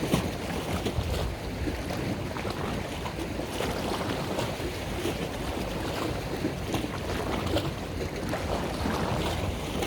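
Boat moving on open water: a steady low rumble with water splashing and wind on the microphone.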